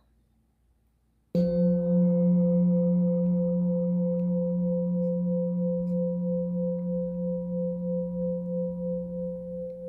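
Singing bowl struck once about a second in, then ringing on with a deep hum and several higher overtones, wavering slightly as it slowly fades.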